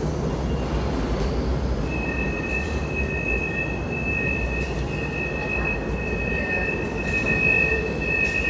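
New York City subway train moving through the station: a steady low rumble, and about two seconds in the steel wheels start a high, steady squeal that holds on.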